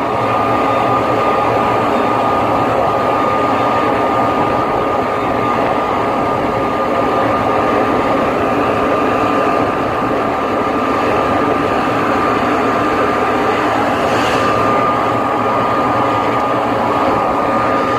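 Tandem grain truck running, heard from inside the cab: a steady, unbroken engine and road drone with a constant high whine.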